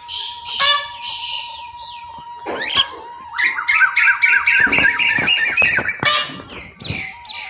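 Birds calling, with squawks and chirps. The middle holds a rapid run of repeated harsh notes, about five a second, for two to three seconds.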